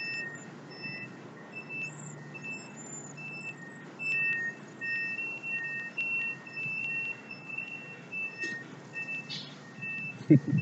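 Reversing alarms of distant trucks or heavy machinery beeping, two or more at different pitches overlapping so the beeps fall unevenly, over a low steady rumble.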